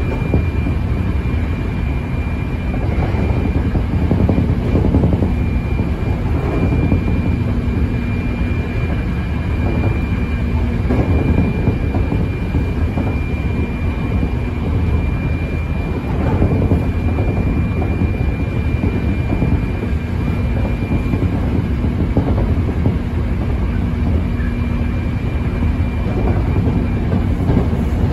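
Running sound heard inside a Hankyu 7300 series electric train car with a Toyo Denki IGBT VVVF inverter, travelling at speed: a steady loud rumble of wheels on rail and running gear. A thin steady high whine runs over it and fades about three quarters of the way through.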